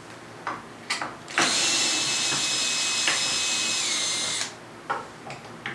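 Power drill backing out a screw. The motor whines steadily for about three seconds and drops in pitch shortly before it stops, with a few short clicks before and after.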